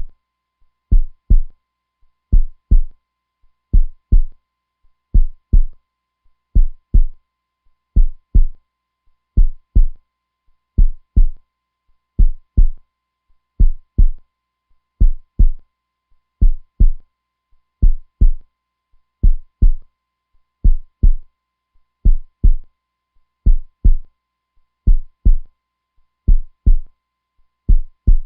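A heartbeat going steadily and slowly, each beat a deep double thump (lub-dub), about one beat every second and a half.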